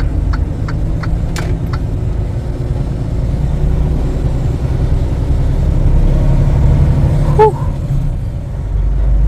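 Freightliner Cascadia semi-truck's diesel engine running steadily, a low rumble, with a few faint clicks in the first two seconds and a brief chirp about seven seconds in.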